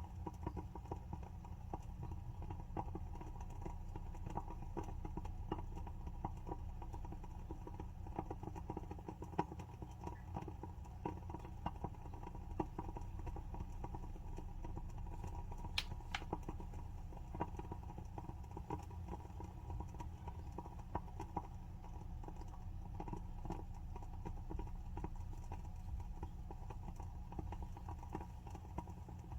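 Wooden wick of a WoodWick candle burning with a soft, irregular crackle of small pops, one sharper pop about sixteen seconds in.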